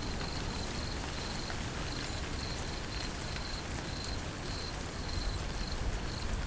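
Steady rain falling, with an insect chirping in short high pulses about twice a second.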